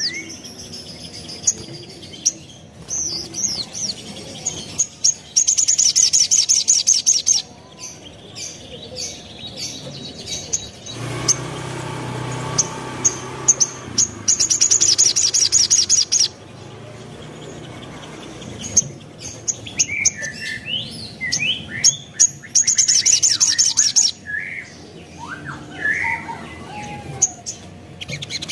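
Sogon (sogok ontong) birdsong: rapid, very high trills in bursts of about two seconds, three times, with sharp single chirps and short squeaky gliding notes between.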